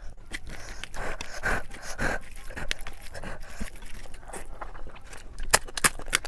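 Close-miked eating sounds: irregular wet chewing and mouth noises, with a few sharp clicks near the end.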